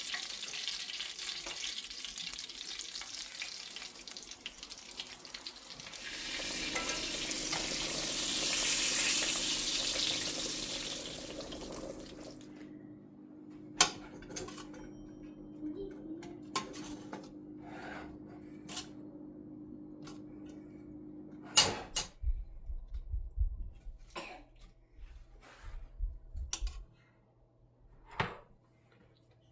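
Water running from a kitchen tap for about twelve seconds, swelling before it is shut off. It is followed by scattered clinks and knocks of dishes and utensils being handled, with two sharper knocks.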